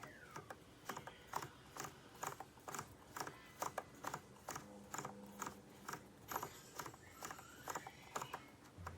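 A faint, steady run of small sharp clicks and taps, about three a second, with a short low hum about halfway through.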